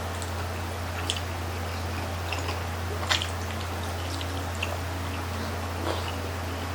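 Close-miked chewing and biting of grilled chicken intestine (isaw): scattered wet mouth clicks and snaps, the sharpest about a second in and again about three seconds in, over a steady low hum.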